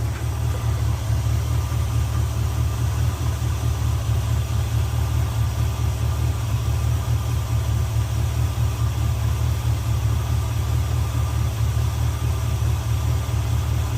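Chevrolet 350 small-block V8 idling steadily, warmed up, while its distributor is turned to retard the ignition timing, found at about 20 degrees before top dead center, back toward the specified 12.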